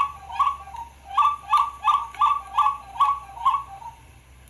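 A bird calling: a loud series of about ten short two-note calls, two to three a second, that stops about four seconds in.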